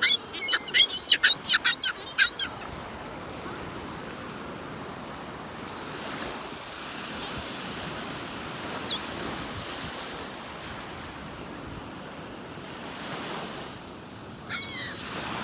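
Gulls calling in a quick series of loud squawks for the first two seconds or so, then surf washing steadily with a few faint gull calls, and another gull call near the end.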